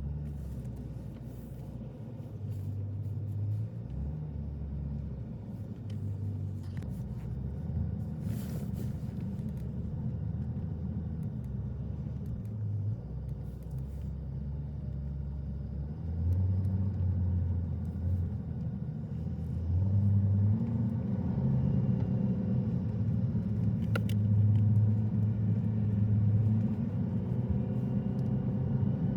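Car driving: a steady low engine and road rumble whose pitch shifts with engine speed, growing louder about halfway through and again a few seconds later.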